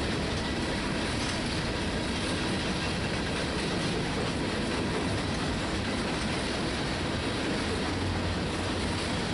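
Freight train of covered hopper cars rolling steadily past, steel wheels running on rail.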